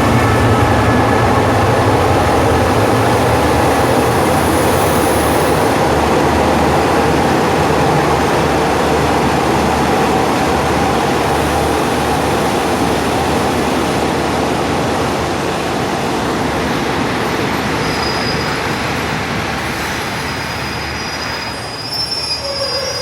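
Passenger train rolling by at speed: a steady loud rumble of wheels on rail with a thin steady whine over it, the deep engine hum dropping away in the first couple of seconds and the whole sound slowly fading toward the end.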